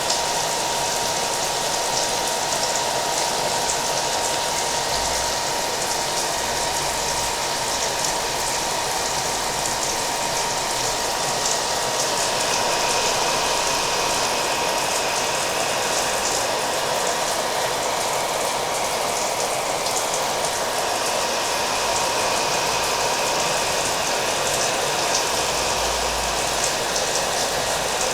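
Hair dryer running steadily with a thin steady whine, mixed with the patter of rain.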